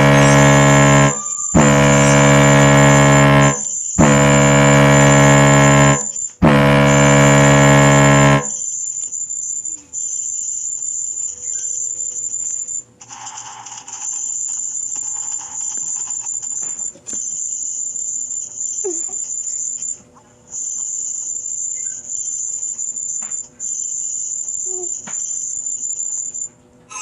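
Sound effects: four loud buzzer blasts, each about two seconds long. After them a high-pitched steady whine runs on, cut by short breaks, with a few softer hissing bursts in the middle.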